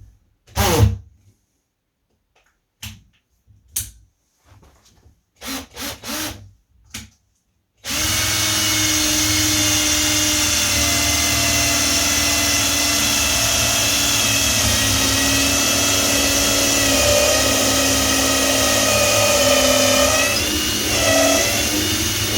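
Power drill boring a pilot hole into the edge of a door for the lock, running steadily with an even whine from about eight seconds in, its pitch dipping briefly near the end. Before the drill starts there are a few short knocks and clicks.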